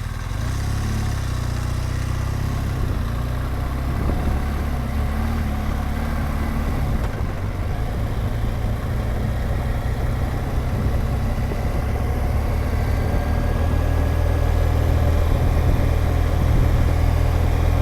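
BMW R1200GSA's flat-twin boxer engine running steadily under way, a deep drone with an even rush of noise over it. It grows gradually louder toward the end.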